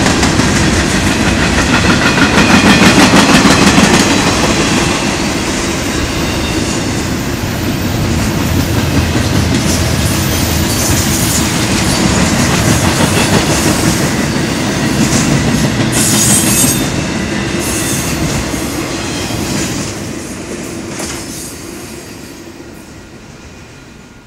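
Mixed freight train of boxcars, coil steel cars and double-stack container well cars rolling past close by, its wheels clattering over the rail joints. The rumble dies away over the last few seconds as the end of the train goes by.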